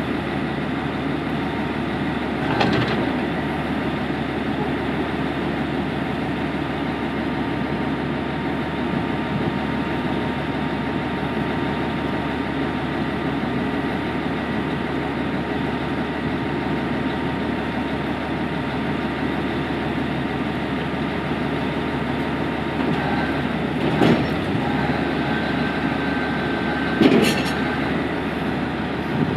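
ENR-1000 rail snow-clearing maintenance vehicle's diesel engine running steadily while its plow changes from Russell to rotary form, with a few sharp knocks, one about three seconds in and two near the end.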